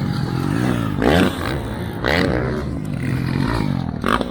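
Motocross bike engines idling and revving, with several sharp rev surges rising in pitch.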